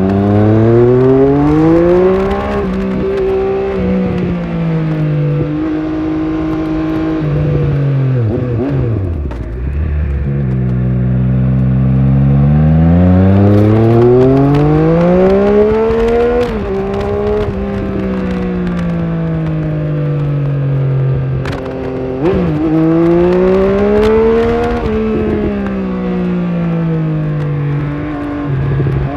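Triumph Speed Triple 1200RS's 1160 cc inline three-cylinder engine under way, heard from onboard: the revs climb and fall several times as the bike accelerates and slows, with short breaks in the pitch at the gear changes.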